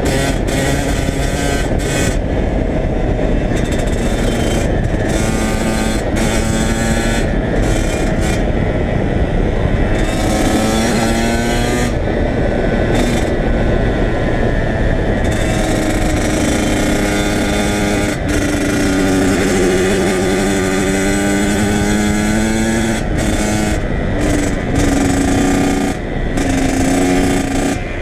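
Kawasaki KX100 two-stroke dirt bike engine running while ridden, its pitch rising and falling with the throttle. A steady low wind rumble sits underneath.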